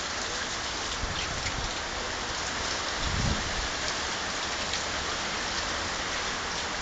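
Heavy rain falling steadily, a dense hiss with scattered sharper drop hits, with a brief low thump about three seconds in.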